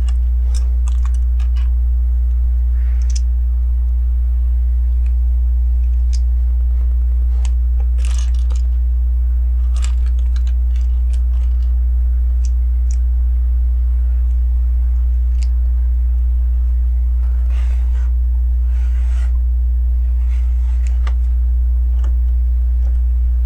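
LEGO bricks and plastic pieces being handled and pressed together: scattered small clicks with a few brief rustles, over a steady low hum that is the loudest sound throughout.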